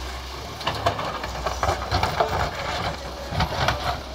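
Volvo hydraulic excavator's diesel engine running steadily, with irregular knocking and clattering, typical of the bucket working material into a tractor trolley, starting about a second in and easing near the end.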